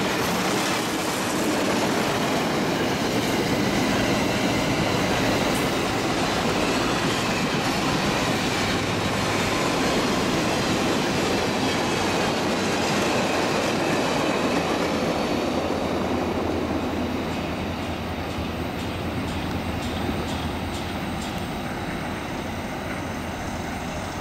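Passenger train cars rolling past on the track: a steady rumble and rattle of steel wheels on rail. It gets quieter about two-thirds of the way through as the train draws away, with clicks of wheels over rail joints near the end.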